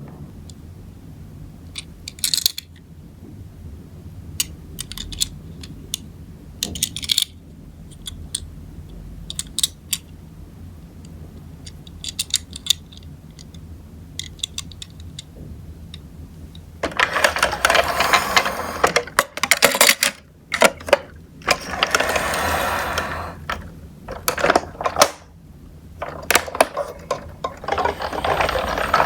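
Die-cast Tomica toy cars and a plastic toy car carrier being handled: scattered small clicks and knocks, then, from about two-thirds of the way in, a dense clattering rattle with brief pauses.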